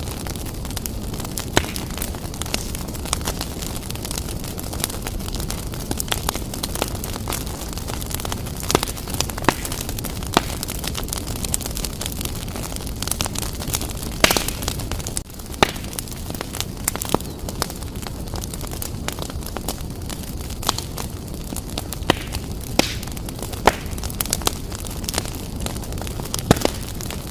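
Fire burning in a fireplace: a steady rush of flames with frequent sharp crackles and pops, one louder pop about 14 seconds in.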